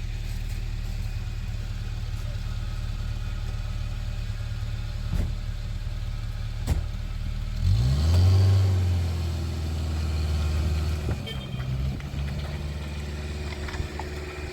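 A vehicle engine running steadily, with two sharp knocks; about eight seconds in it is revved, its pitch rising, and then runs on more steadily.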